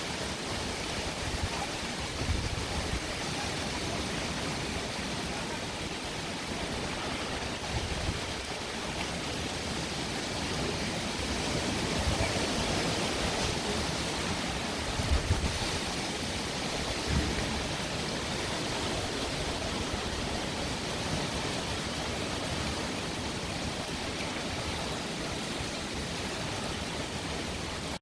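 Tropical-storm rain and wind as a steady, even hiss, with a few brief low rumbles.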